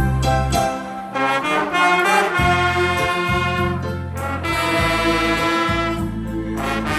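Band music led by brass instruments playing held notes and chords over a steady bass line, which drops out briefly about a second in.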